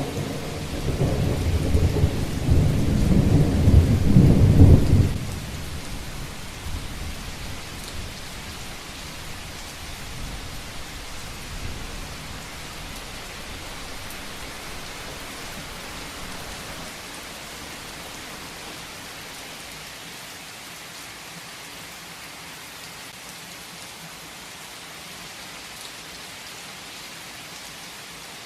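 Heavy rain falling steadily, with a loud, low rumble of thunder through the first five seconds that then dies away, leaving the rain alone.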